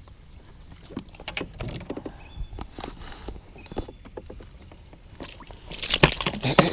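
Scattered light knocks and clicks of handling in a small fishing boat, then a louder burst of dense clattering and splashy hiss starting near the end.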